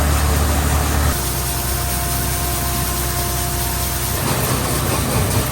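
Allis-Chalmers L3 combine's engine running with wind noise. The heavy low drone drops about a second in, and a steady whine runs for about three seconds before fading into the noise.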